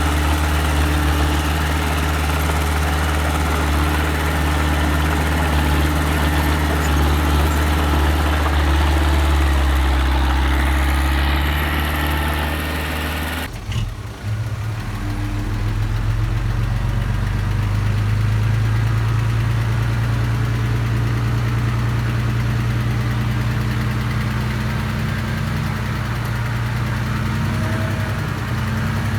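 Engine of a small earthmoving machine, a mini dump truck or small bulldozer, running steadily. About halfway through the sound switches abruptly to a different engine note, which carries on steadily.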